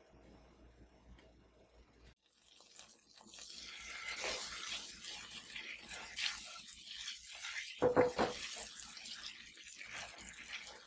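Water running from a tap into a sink, a steady hiss that builds up a few seconds in, with a short clatter about eight seconds in.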